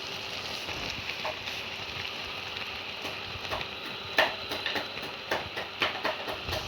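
Cicadas frying in a pan: a steady sizzle with sharp crackles and pops that come more often in the last couple of seconds.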